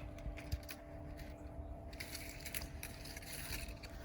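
Swimming pool filter pump humming steadily, under scattered crunching and rustling of footsteps on wet ground.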